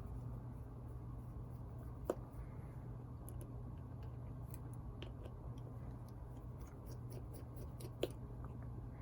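Small clicks and ticks of the tiny plastic and metal parts of an HO-scale model locomotive motor being handled and taken apart, with two sharper clicks about two seconds in and near the end, over a steady low hum.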